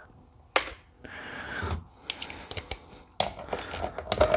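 A hand ratchet clicking as it is worked back and forth, with scrapes and metallic clinks of tools and pump parts; the clicks come thick and fast from about three seconds in.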